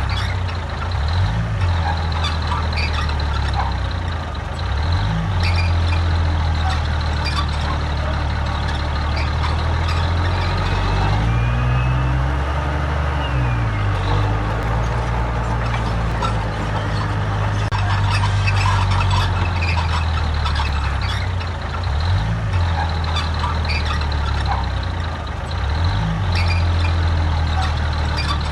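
Heavy diesel earthmoving machinery running under load, its engine note dipping and rising several times as it works, with scattered clanks and squeaks over it.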